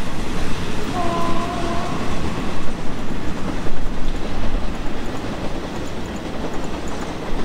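Passenger train running away along the track, a steady rumble with wheels clacking over the rail joints. A brief steady tone sounds over it for about a second and a half, starting about a second in.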